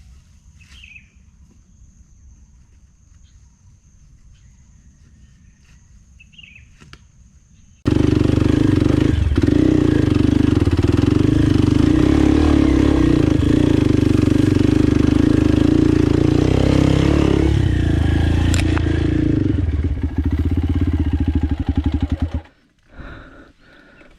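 Kawasaki KLX 230 dirt bike's single-cylinder engine running, coming in suddenly about eight seconds in. It runs steadily, then settles into a slower pulsing beat near the end before cutting off. Before it there is only a faint steady high whine and a few short chirps.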